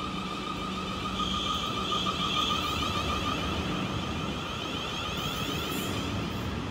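Electric multiple-unit train moving through the station: a steady whine of several high tones over a low rumble.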